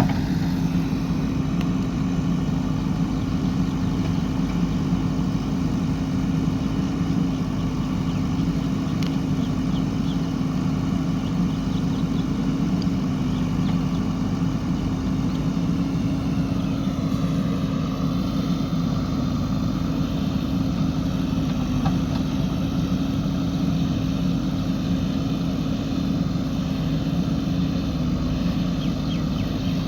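JCB 3DX backhoe loader's diesel engine running steadily at work, a constant drone with a low rumble. A little past halfway a higher whine drops in pitch and settles lower.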